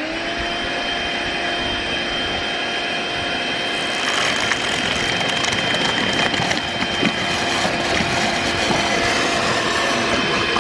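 Makita CL181FD 18V cordless stick vacuum, fitted with cyclone attachments, switching on and spinning up to a steady high-pitched motor whine with rushing air. About four seconds in, the rushing air grows louder and harsher.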